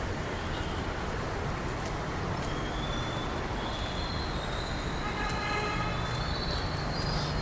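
Steady hum of road traffic, with a vehicle horn sounding briefly about five seconds in.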